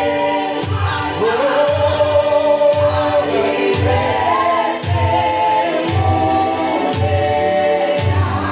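Gospel song sung by a group of voices over instrumental accompaniment with a steady beat.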